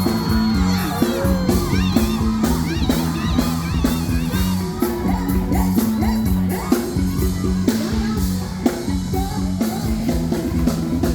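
Live stage music with a steady beat and a repeating bass line, with singing and shouts from a crowd over it.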